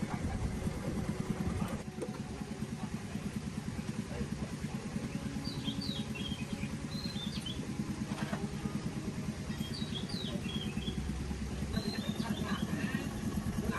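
An engine running steadily with an even low throb. Small birds chirp a few times around the middle and again near the end.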